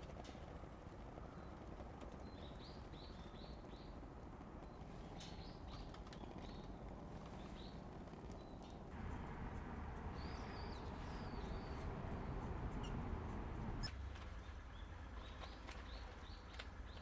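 Small birds calling in short runs of quick chirps, several times, over a steady low background rumble that grows louder about nine seconds in and drops again near the end.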